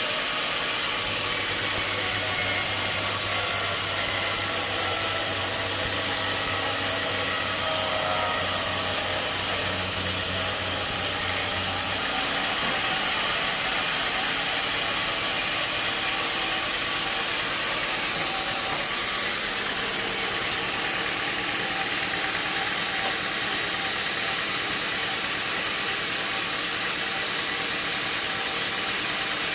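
Sawmill machinery running with a steady, dense mechanical noise. A low hum cuts out about twelve seconds in, and the machinery carries on.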